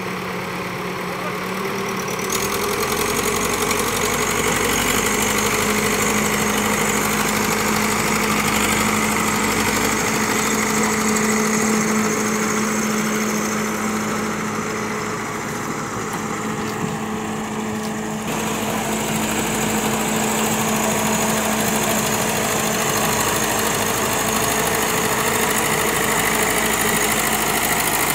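JCB backhoe loader's diesel engine running; its speed rises about two seconds in and then holds steady.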